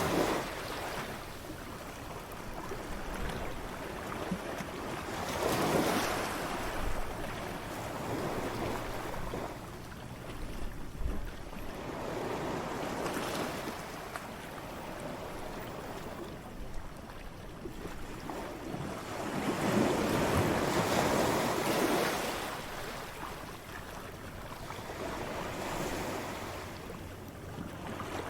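Ocean waves crashing, a steady wash of surf that swells into a louder break about every seven seconds and then eases back.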